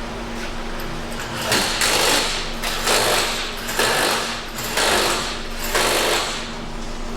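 Pneumatic impact wrench firing in five short bursts, about one a second, as it runs a nut or bolt down, over a steady low hum.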